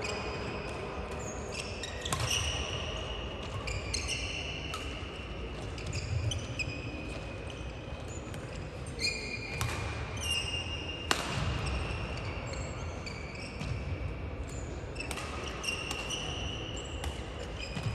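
Badminton rally: players' shoes squeaking on the court floor again and again, with a few sharp racket hits on the shuttlecock spaced several seconds apart.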